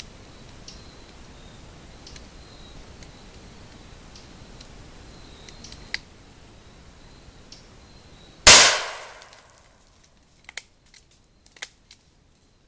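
A single gunshot from a Rossi Circuit Judge .410/.45 Colt revolving shotgun, one sharp report about two-thirds of the way in that rings off over about a second. A few faint clicks follow.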